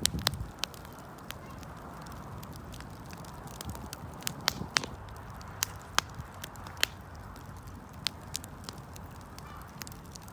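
Wood fire crackling and popping, with sharp, irregular snaps over a steady low hiss of burning, and a low rumbling shuffle near the start.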